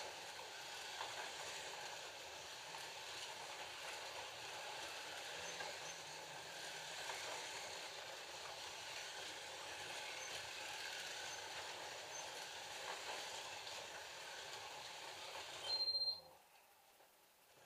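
FLY Classic slot cars with 19K motors lapping the track: a steady whir of small electric motors and gears, with the guides rattling in the slots. About sixteen seconds in, a short high beep sounds and the whir cuts off at once.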